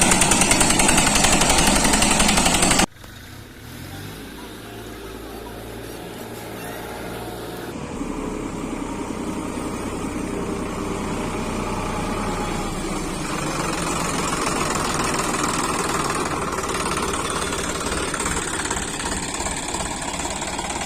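A loud, dense burst fills about the first three seconds and cuts off suddenly. Then a tractor's diesel engine runs, growing gradually louder over the following seconds.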